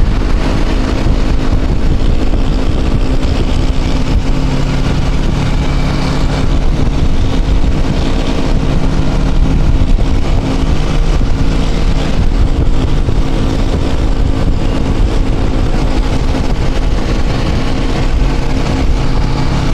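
Motorcycle engine running steadily at riding speed, heard from a helmet-mounted microphone with heavy wind rumble.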